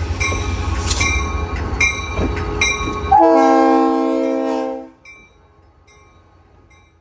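A train running with a heavy rumble and a bell ringing about once every 0.8 seconds. About three seconds in, a multi-note horn sounds one blast of about a second and a half. After that the rumble drops away and the bell keeps ringing faintly.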